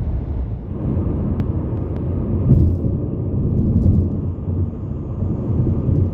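A car driving along the highway: steady low road and engine rumble with small swells.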